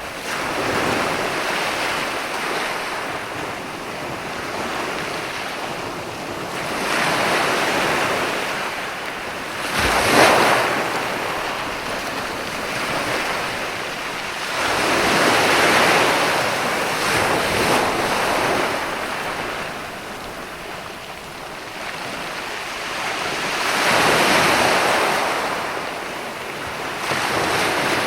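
Sea waves breaking on a sandy beach, surging and washing back in slow swells every several seconds. The sharpest crash comes about ten seconds in.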